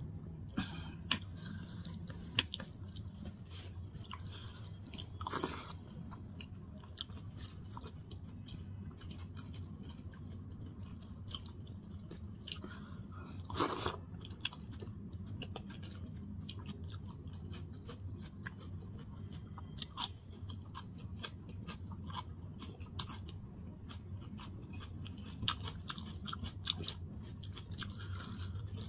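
Eating sounds: chewing mouthfuls of rice and lentil dal eaten by hand, with clicks and wet squishes of fingers mixing the food on a steel plate, over a steady low hum.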